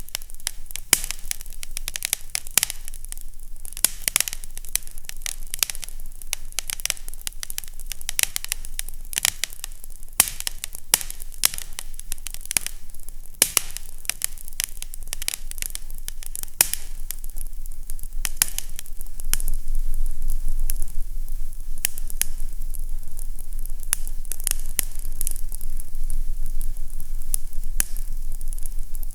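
Fireplace crackling: frequent sharp pops and snaps over a steady hiss, with a low rumble that grows louder about two-thirds of the way in.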